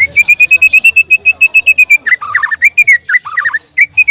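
White-rumped shama (murai batu) singing loudly at close range. It opens with a fast run of identical high chips, about ten a second, for two seconds, then breaks into varied phrases of quick notes sweeping downward.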